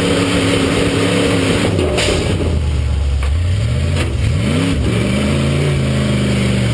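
Demolition derby truck engines running hard and revving, their pitch rising and falling through the middle, with a few short knocks between them.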